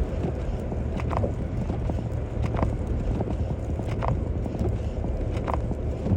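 Inside the cab of a Toyota Tacoma driving slowly on a snowy road: a steady low rumble of engine and tyres, with a knock about every second and a half that fits the windshield wipers reaching the end of each sweep.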